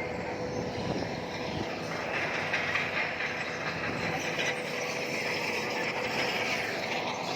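Crawler bulldozer working: a steady diesel engine with its steel tracks clanking and squeaking.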